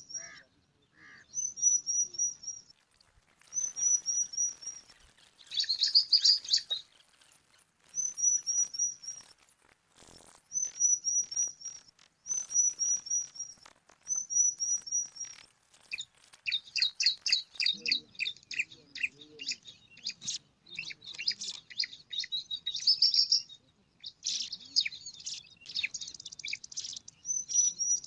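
Bar-winged prinias at the nest giving high, thin chirps in quick series of four or five notes, in short bouts with pauses between. From about halfway through the chirping turns denser and more continuous.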